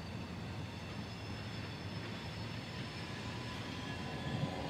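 Distant CSX freight train cars rolling along the track: a steady, even rumble of steel wheels on rail.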